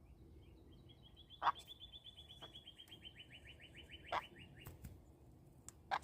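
Bird sounds: a rapid trill of evenly repeated high notes, about eight a second, drifting slightly lower over some four seconds. Three short, sharp calls stand out louder than the rest, about a second and a half in, near four seconds in, and at the very end.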